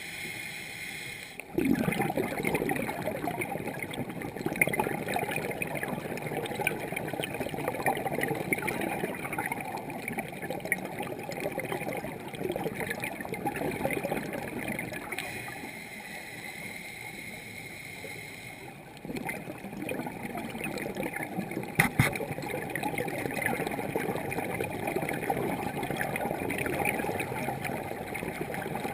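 Scuba diver's exhaled bubbles rushing and gurgling past the regulator, heard underwater through the camera housing. It starts suddenly, eases off for a few seconds midway, then resumes, with one sharp click partway through.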